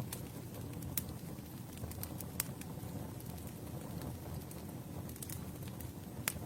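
Campfire burning: a steady low rush from the flames with scattered crackles and a few sharp pops, the loudest about one, two and a half and six seconds in.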